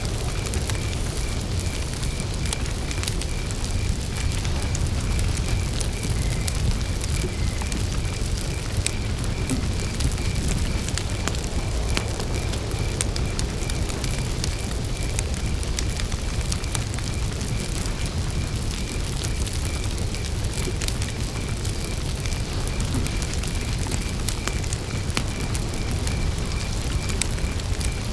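Wood campfire burning, with a low steady rumble and frequent small crackles and pops. A cricket calls throughout in an even, pulsing high chirp.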